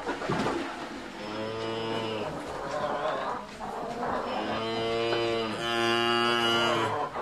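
Cattle mooing: one moo about a second in, then a longer call near the end that seems to break into a second moo partway through.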